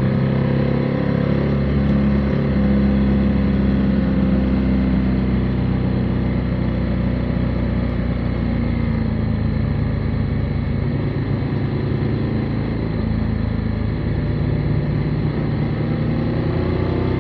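Motorcycle engine running on the road. Its note eases down over the first few seconds, holds steady, then rises near the end as the revs pick up.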